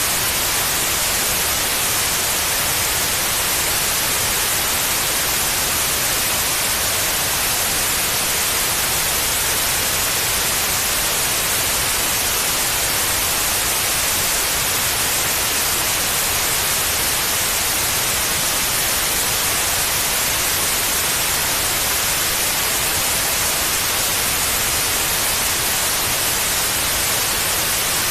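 Steady, unchanging white noise, a continuous hiss played to lull a baby to sleep.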